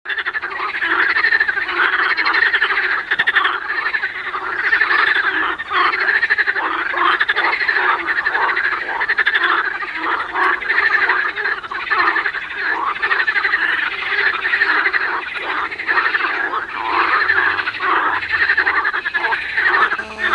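A dense chorus of many frogs croaking at once from a marsh, the calls overlapping into one continuous din.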